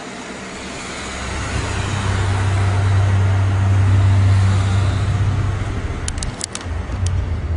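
A deep rumble with a hiss over it that swells over a few seconds and eases off again, followed by a few sharp clicks near the end.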